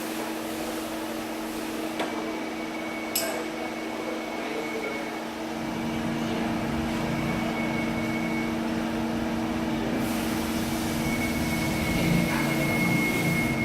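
CNC lathe running with a steady motor hum, two sharp clicks a few seconds in, and a deeper rumble joining about halfway.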